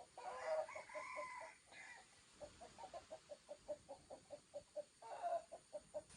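Chickens: a drawn-out call in the first second and a half, then a quick run of clucks, about six a second, with another short call about five seconds in.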